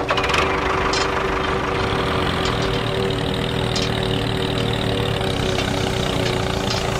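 A small motor running steadily with an even hum and a constant pitch, with a few faint ticks over it.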